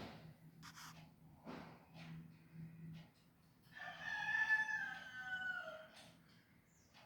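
A bird gives one long call of about two seconds, starting about halfway in, with the pitch dropping toward its end. Before it there are a few short, faint clicks and scrapes.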